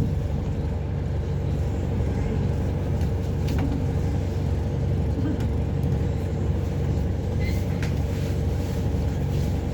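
Steady engine drone and road noise inside a Dublin Bus double-decker on the move, heard from the passenger cabin, with a couple of small rattles.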